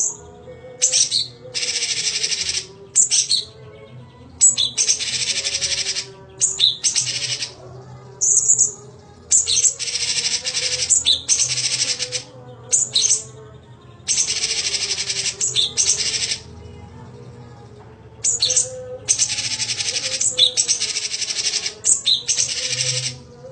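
Cucak cungkok songbird singing in long, rapid, dense chattering phrases of one to three seconds each, broken by short pauses, repeated about ten times.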